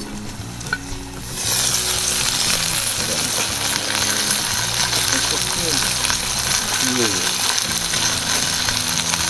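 Steady sizzling hiss from a cast-iron Dutch oven roasting a whole chicken over a wood fire, setting in abruptly about a second and a half in.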